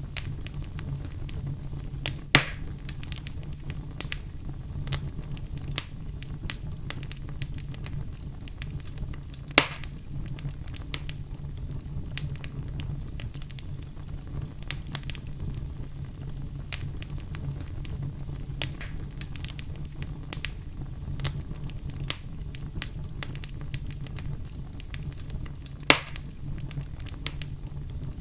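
Wood fire burning in a fireplace: a steady low rumble of flames with constant small crackles, and three louder pops, at about two seconds, ten seconds and near the end.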